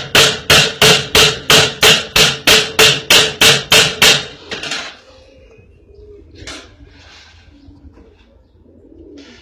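Hammer driving small tacks or nails through wire mesh into a wooden frame, with rapid, evenly spaced strikes, about three a second. The strikes stop after about four seconds.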